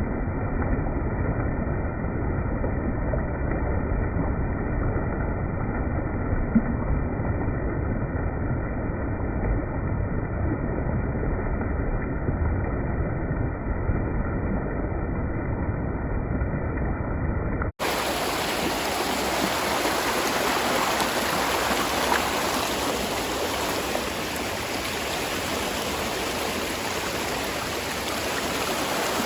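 Spring water flowing in a stream, a steady rushing of water. For about the first eighteen seconds it is dull and muffled with a deep rumble; then, after a sudden cut, it becomes a brighter, steady hiss of running water.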